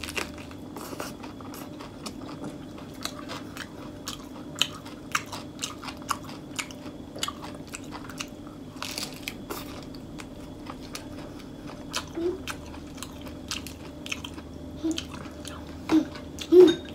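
Close-up chewing of a fresh lettuce wrap of herbs and betel-leaf-rolled beef: crisp leafy crunches and wet mouth clicks over a steady low hum.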